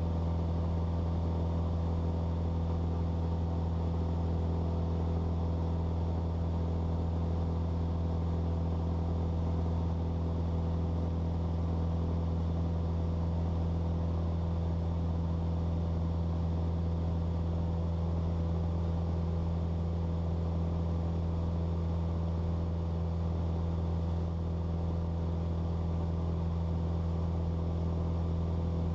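Cessna 172's piston engine and propeller droning steadily in cruise, heard from inside the cabin, a deep even hum with no change in pitch.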